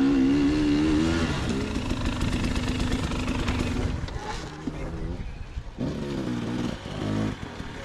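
Two-stroke dirt bike engine under throttle, its pitch rising and falling in the first second, then running steadily. About four seconds in it drops to a quieter, uneven sound, with a few short revs near the end.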